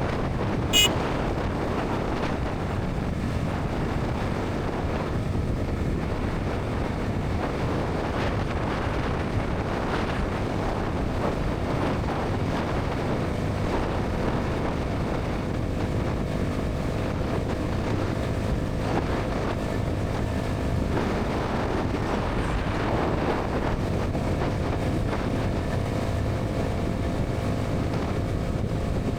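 Bajaj Pulsar NS 200's single-cylinder engine and exhaust running steadily at highway speed, mixed with heavy wind rush on the microphone. A single sharp click comes about a second in.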